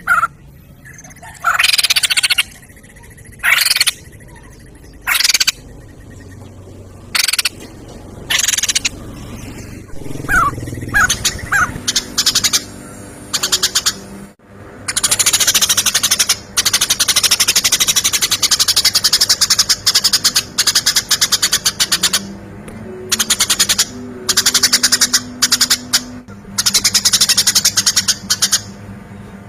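Animal calls: loud rattling bursts, separate at first and then almost continuous from about halfway through, with a few short falling chirps.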